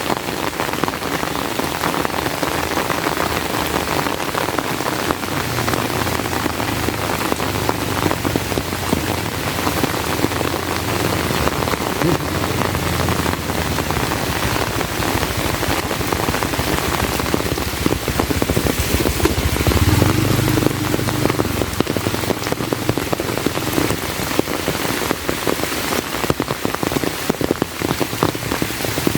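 Heavy rain falling steadily, with a dense patter of drops. A low rumble rises under it and peaks around the middle.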